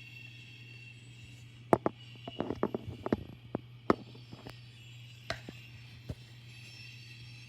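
A steady low hum with an irregular run of sharp clicks and knocks, most of them crowded into a couple of seconds in the first half and two of them loudest, then a few scattered ones later.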